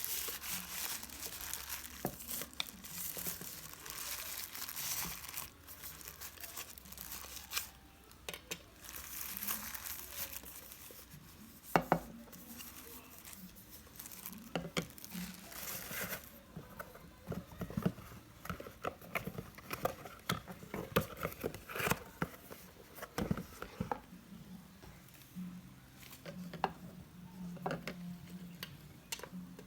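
Packaging crinkling and tearing as a parcel is unwrapped and handled, with scattered clicks and knocks; the loudest is a sharp double knock about twelve seconds in.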